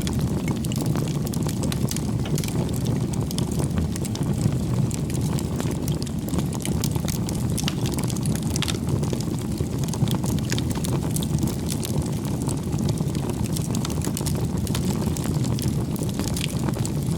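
A bonfire of firewood burning, with a steady low rush of flame and frequent small crackles and pops throughout.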